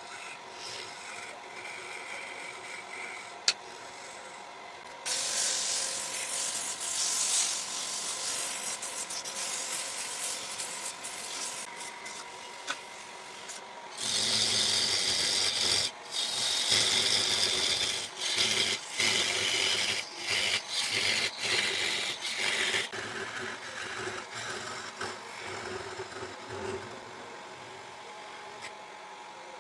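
Wood lathe running with a steady hum while a tool or sandpaper rubs and scrapes against the spinning wood. The scraping comes in stretches: it starts about five seconds in, is loudest and stop-start in the middle, then eases off. There is a sharp click early on.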